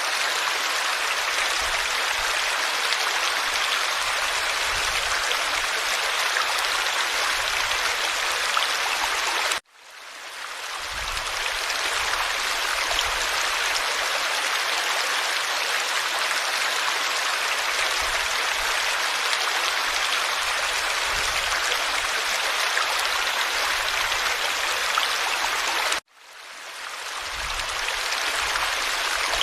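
Forest stream water flowing in a steady rushing babble. It cuts out suddenly twice, about ten seconds in and again near the end, each time fading back in over a couple of seconds.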